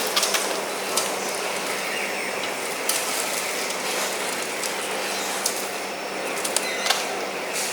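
Homemade wood chipper driven by an angle grinder running steadily, with a constant hum and scattered sharp ticks.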